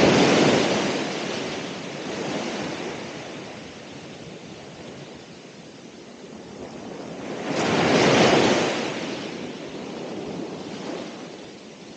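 Ocean waves breaking on the shore: a wave crashes at the start, the surf washes back and fades, and another wave breaks about eight seconds in, with a smaller one near the end.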